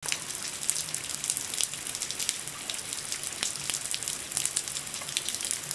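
Steady rain, with water dripping and splashing off a roof edge in many quick, irregular splatters over a high hiss.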